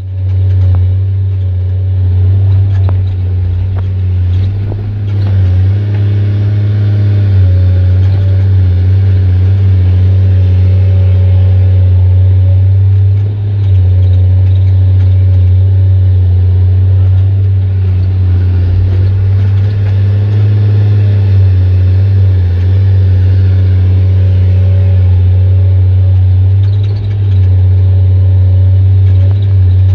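Excavator diesel engine running through an open, unsilenced exhaust with a loud, deep, continuous note. The pitch swells and eases several times as the engine takes and sheds load, with a brief dip about 13 seconds in and again near the end.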